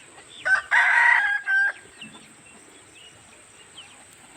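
A rooster crows once, starting about half a second in and lasting a little over a second, in the broken cock-a-doodle-doo pattern. Faint short high chirps follow.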